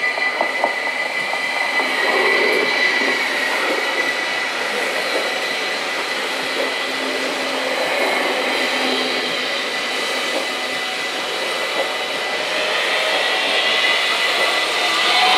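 Stadler FLIRT electric multiple unit passing over a level crossing, its wheels and running gear rumbling steadily with a few sharp clicks about a second in. Over it the crossing's mechanical warning bells keep up a continuous high ringing.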